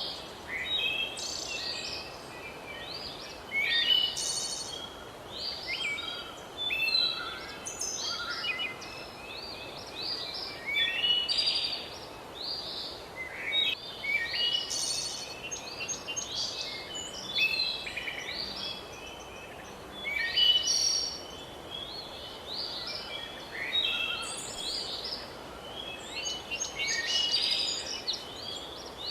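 Several songbirds singing and chirping at once, a dense run of short overlapping calls and trills over a faint steady background hiss.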